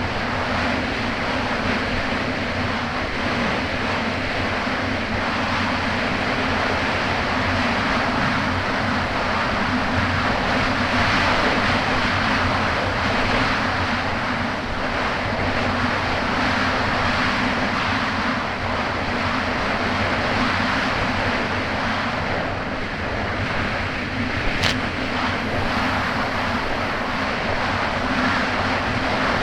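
Kawasaki Ultra 300X jet ski engine running steadily at speed, with rushing wind and water noise over the microphone. A single short click sounds near the end.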